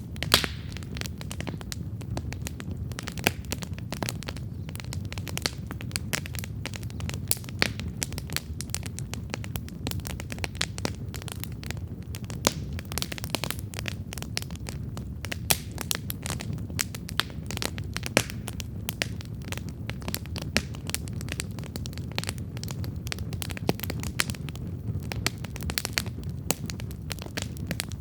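Wood campfire burning: a steady low rumble of flames with constant irregular crackling and sharp pops from the burning logs.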